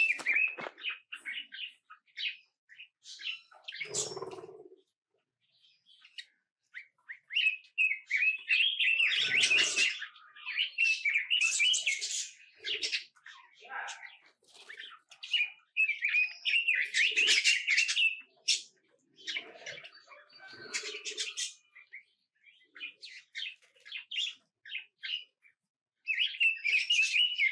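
Small birds chirping and twittering in busy bursts with short pauses between, mixed with a few duller, lower sounds.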